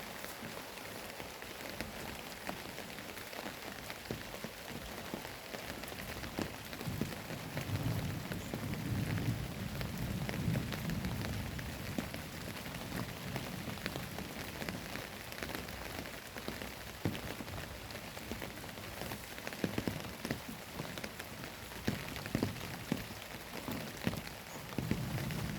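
Steady heavy rain hitting surfaces, with many separate drop splats. Thunder rumbles low from about seven to twelve seconds in, and again briefly near the end.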